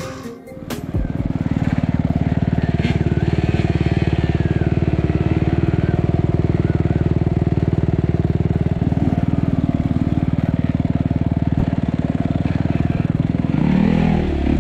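Enduro motorcycle engine running steadily at an even speed, its firing pulses regular, after a brief drop-out in the first second.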